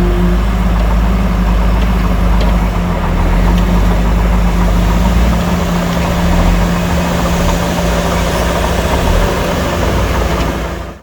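Heavy diesel earthmoving engine running steadily and loudly, its deep low rumble easing off about halfway through.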